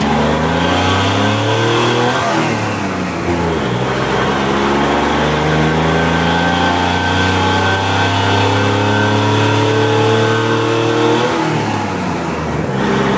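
1966 Chevy truck's 292 straight-six engine revving hard under acceleration. It climbs in pitch for a couple of seconds and drops at a gear change, then makes a long climb to about 4,600–4,800 rpm before falling off near the end. The engine is a worn one, about 90 pounds of compression by the owner's account.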